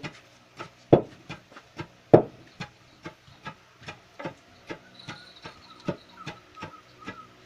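Wooden pestle pounding rice in a wooden lesung mortar: steady knocks about two and a half a second, two of them much louder about one and two seconds in.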